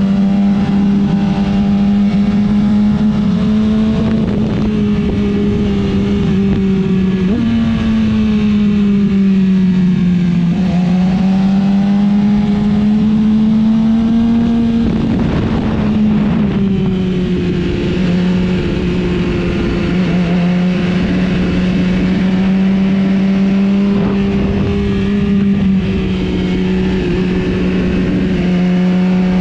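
A motorcycle engine running at high, fairly steady revs, its pitch easing down and back up slightly every few seconds, over a steady rush of noise.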